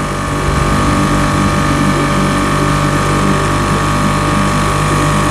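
A small sailing boat's engine running steadily under way, a constant hum with a whining tone above it, a little louder from about half a second in.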